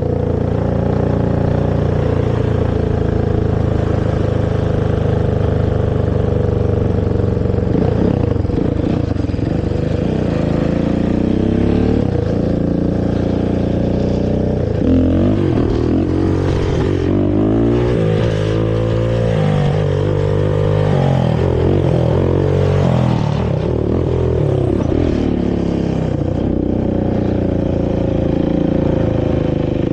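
Honda TRX450R quad's single-cylinder four-stroke engine running on its stock exhaust, pulling steadily, then revving up and down repeatedly through the middle of the stretch before settling back to a steady run.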